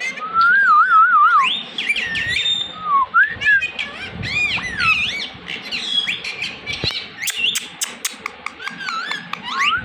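Indian ringneck parrot whistling and chirping. It opens with a warbling whistle about a second long, then a string of sliding, arching whistle notes mixed with short sharp clicks.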